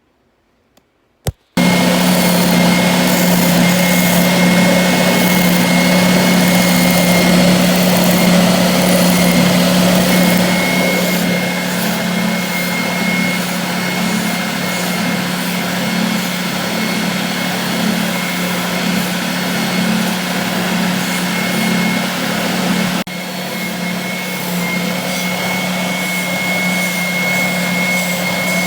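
Electric belt sander starting abruptly about a second and a half in, then running steadily with a hum and a high whine while sanding a wooden dowel perch to roughen it.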